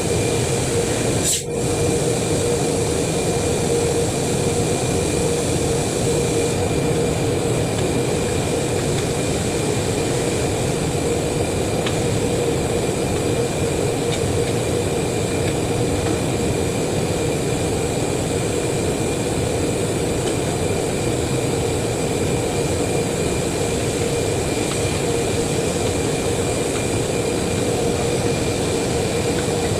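A machine running steadily: a constant drone with a fixed hum and a faint higher whine, and one brief click about a second and a half in.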